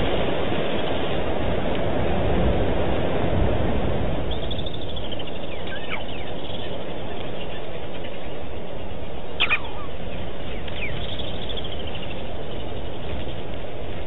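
Outdoor ambience from a waterhole camera: a steady hiss of background noise with wild birds calling over it. There are a few downward-gliding whistled calls around a third of the way in and again near the end, and one short sharp call about two-thirds through.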